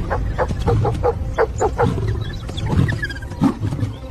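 A lion growling under a pack of African wild dogs giving quick, short, high yelping calls, several a second, as they close in on it.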